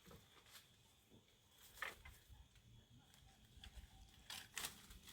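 Near silence with faint background ambience and a few faint clicks: one about two seconds in and two close together near the end.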